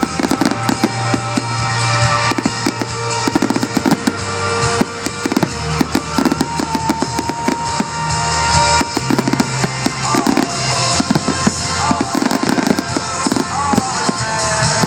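Fireworks going off in rapid bangs and crackles over loud show music with bass and drums.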